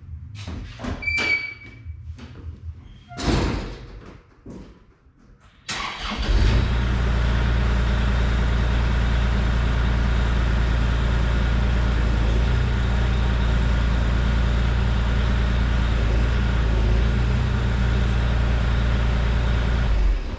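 A few knocks and clicks, then a Kubota excavator's diesel engine starts about six seconds in and runs steadily at idle before shutting off near the end.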